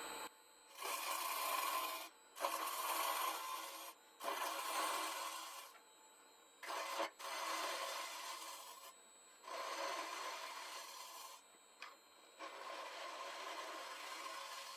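Turning tool cutting the spinning wood of a bowl on a lathe: a hissing, scraping cut in about eight passes of one to two seconds each, with short pauses between them as the tool is lifted and brought back.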